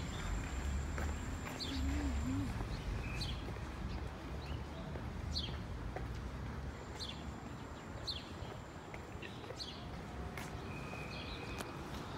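Small birds chirping, short falling chirps every second or so, over a steady low rumble of street noise.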